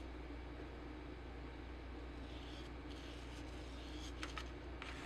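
Quiet room tone with a steady low hum, faint soft rubbing in the middle, and a few light clicks near the end.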